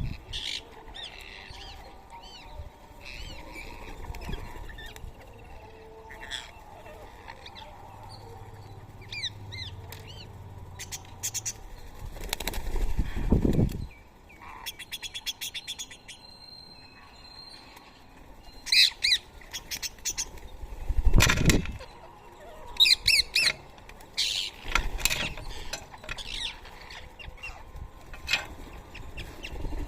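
Rose-ringed parrots chirping and calling in short scattered notes, with two loud whooshes of wingbeats, one near the middle and one about two-thirds of the way through.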